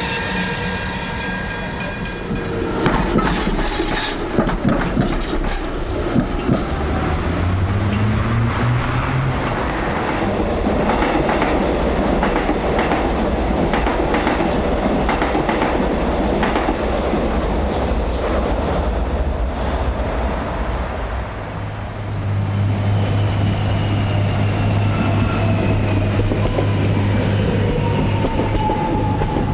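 Electric suburban train on the rails: wheels clicking over rail joints, then a rising motor whine as it gathers speed. Later a steady low hum with slowly falling whine tones.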